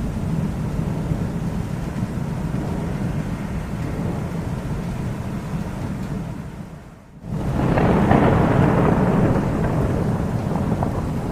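Thunder rumbling steadily, fading almost away about seven seconds in, then a new, louder peal breaks in abruptly and rolls on.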